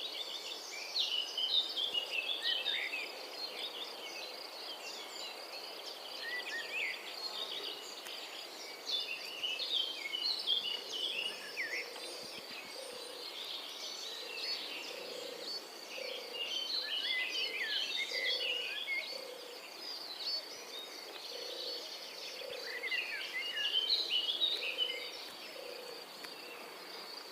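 Nature ambience: birds chirping and trilling in bursts over a steady, high insect buzz, with a soft low note repeating about once a second through the second half.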